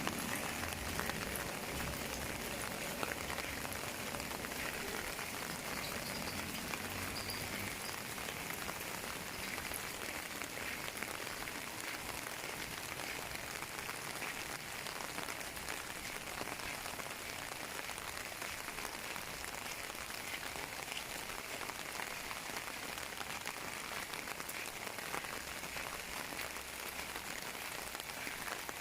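Steady rain falling and pattering on surfaces, an even hiss of many drops without pause.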